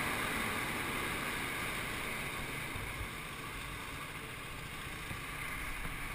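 Steady rushing noise on a GoPro's microphone, like wind and road noise, slowly getting quieter, with no distinct knocks or impacts.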